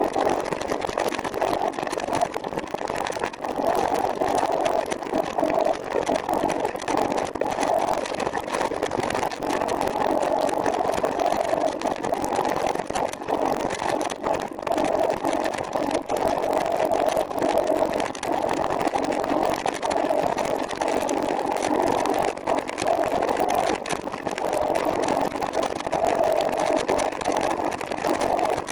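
Steady, even rushing road noise of a trike in motion, with no pauses or changes.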